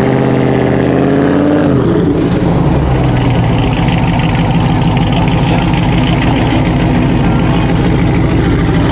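Loud car engine: its pitch rises and falls in a rev over the first two seconds, then it runs on as a steady, loud engine and road noise.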